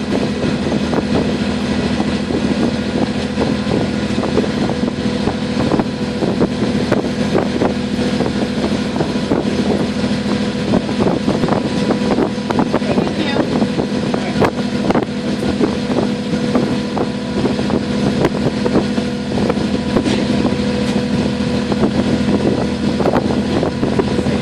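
Small passenger water taxi's engine running steadily under way, a constant drone, with frequent short knocks throughout.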